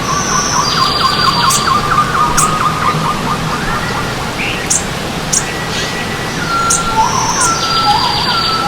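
Several songbirds singing and chirping over steady running stream water: a fast repeated trill in the first half, high buzzy whistles near the start and again near the end, and short falling phrases repeated through the second half.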